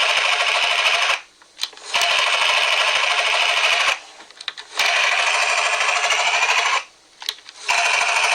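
Toy Dinoco helicopter's electronic rotor sound effect playing through its small built-in speaker, a buzzy chopping whir. It comes in bursts of about two seconds with short breaks between them, starting again about every three seconds as the button is pulled.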